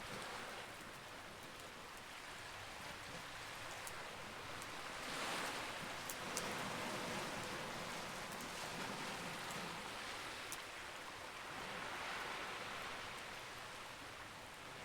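Campfire crackling, with scattered sharp pops and snaps over a steady rushing hiss that swells twice and eases off.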